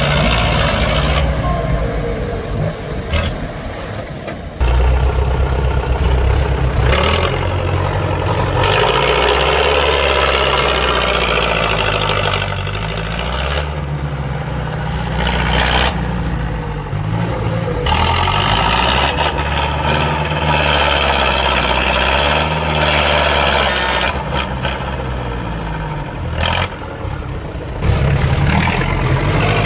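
Heavy diesel engines of a truck and tractors running hard under load, revving up and down again and again, as they strain to pull the mired truck out of the mud.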